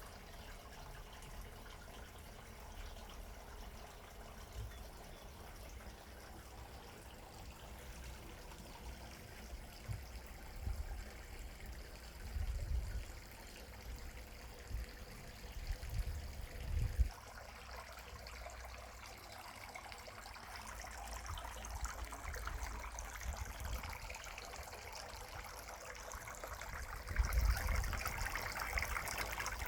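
Water trickling steadily, growing louder and brighter near the end, with a few low rumbles partway through.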